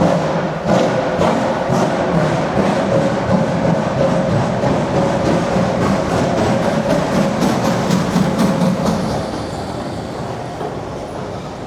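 Steam train running past with a fast, regular beat over a steady rumble, fading over the last couple of seconds as it moves away.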